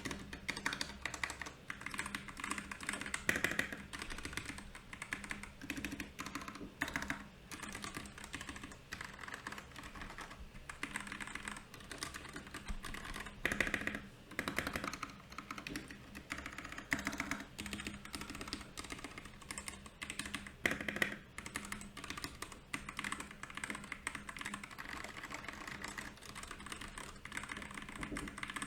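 Fast, continuous typing on a Royal Kludge RK68 mechanical keyboard: a dense run of key clicks and clacks, with a few louder clusters of strokes now and then.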